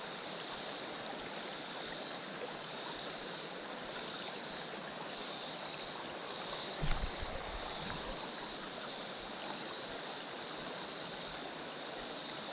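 Creek water running over rocks in a steady rush, under a high-pitched drone that swells and fades in a steady pulse about every second. A single low thump sounds about seven seconds in.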